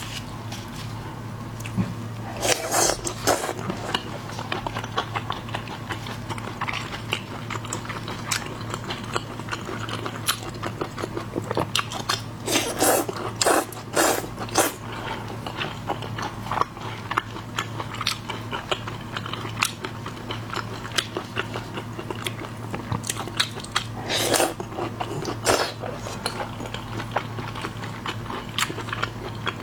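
A person eating shellfish, chewing and crunching with constant small crackles and several louder crunches, over a steady low hum.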